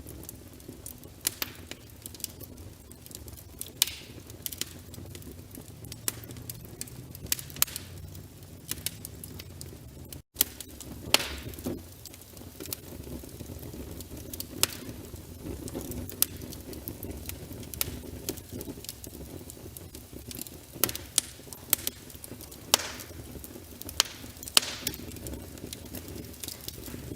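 Wood fire burning in a fireplace: logs crackling with sharp, irregular pops over a steady low rumble of flames. The sound drops out for an instant about ten seconds in.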